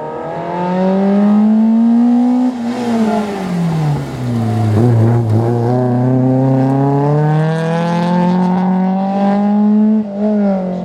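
Peugeot 205 GTI rally car's four-cylinder engine at full effort: the engine note falls away as the car slows about three seconds in, then climbs steadily under hard acceleration for several seconds, with a brief drop near the end at a gear change.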